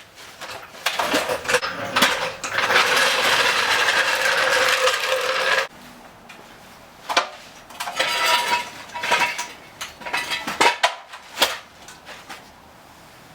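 Metal tools and equipment clanking and clattering as they are handled and set down, with a rough scraping rattle for about three seconds that stops suddenly, then more scattered clanks.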